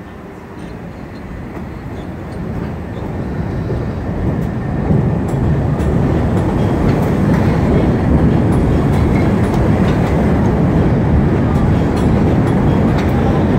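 Chicago 'L' rapid-transit train pulling out of an elevated station. Its rumble builds steadily over the first five seconds as it gathers speed past the platform, then runs on loud and steady, wheels on rails with faint clicks.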